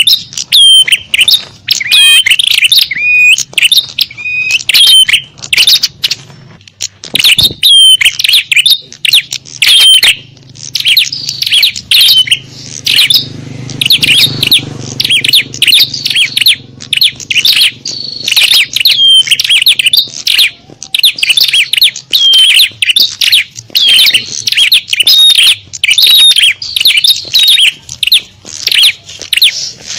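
Lure recording of a crowd of small songbirds calling together: a dense, unbroken stream of quick high chirps, tweets and short slurred whistles.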